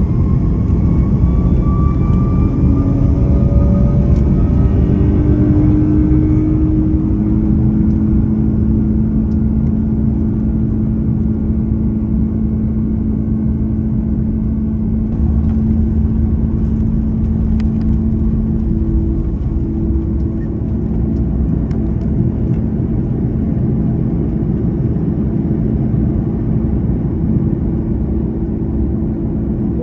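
Airbus A330-300 jet engines heard from inside the cabin, spooling up with rising whining tones over the first several seconds. They then hold a loud, steady roar over a deep rumble, as at takeoff power.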